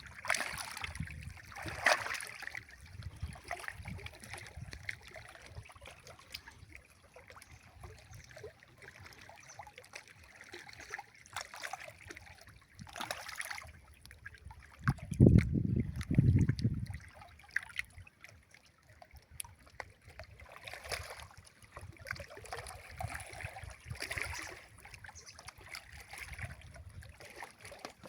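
Water sloshing and trickling around a small boat, with scattered light knocks and handling noises, and two loud low rumbles about fifteen seconds in.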